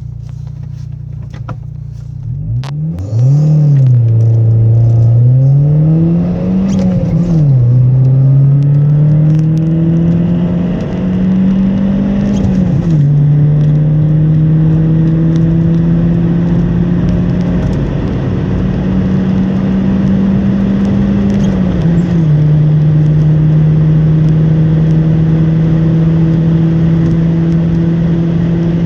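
VW Golf 3's 1.8-litre 8-valve single-point-injection inline four (ADZ engine) breathing through a Remus aftermarket muffler, accelerating hard from standstill. After about two and a half seconds of steady low running, the engine note climbs and drops back at each upshift, climbing more slowly in each higher gear.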